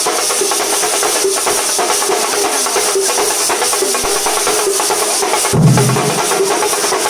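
A thambolam percussion troupe drumming: rapid, dense drum strokes over a steady wash of cymbals. Heavy bass-drum booms come in about five and a half seconds in.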